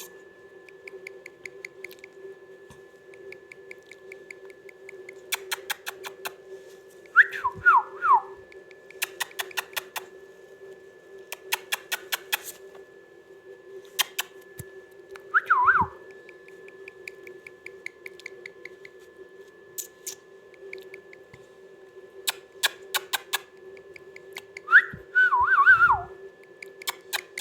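Parrot whistling: three short falling whistles several seconds apart, with runs of sharp clicks in between, over a steady hum.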